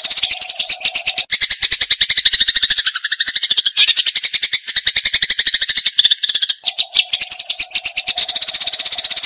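Eurasian tree sparrows (burung gereja) giving their agitated fighting chatter: a loud, unbroken stream of rapid, high chirps, about a dozen a second.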